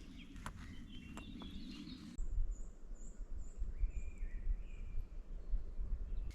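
Wild birds calling: a quick run of short, very high chirps, about three a second, with a few lower whistled notes in the middle, over a low rumble.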